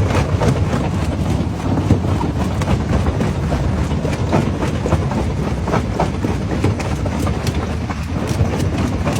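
Komatsu crawler machine's diesel engine running with a steady low rumble, under frequent sharp metallic clanks like steel tracks moving.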